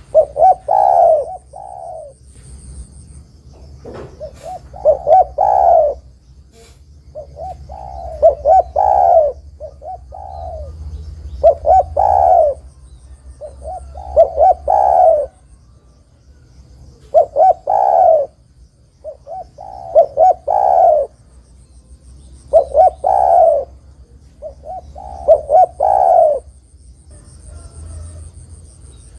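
Spotted dove (derkuku) cooing its repeated multi-note call: a phrase of several coos that rise and fall, given about every two to three seconds, around ten phrases in all.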